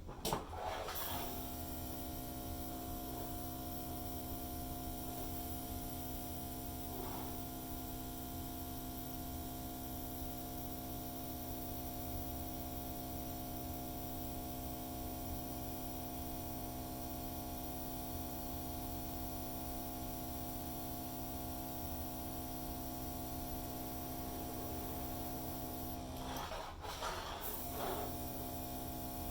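Hairdryer switched on with a click and running with a steady motor hum, blowing poured acrylic paint across the board; the tone briefly wavers near the end.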